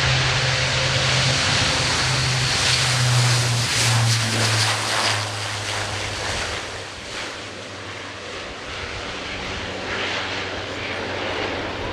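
Airbus A400M's four turboprop engines and propellers droning as the aircraft passes, the low drone dropping in pitch about four to five seconds in and growing fainter after that.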